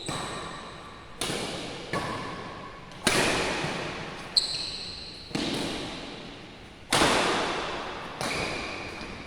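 Badminton rally: rackets strike the shuttlecock about seven times, one to one and a half seconds apart, each sharp hit echoing in a large sports hall.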